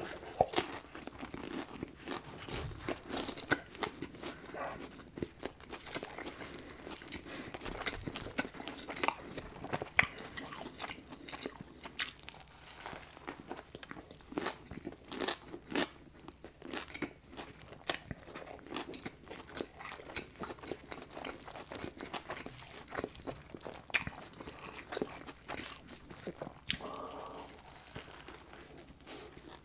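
Close-miked chewing and biting into a Popeyes fried chicken sandwich: many sharp, irregular crunches of the fried breading, with softer chewing between them.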